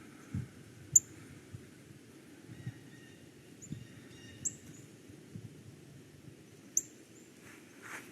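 Short, sharp, high-pitched bird call notes, a few single chips spaced several seconds apart, the loudest about a second in and another near the end. Faint birdsong and a few soft low thumps are also heard.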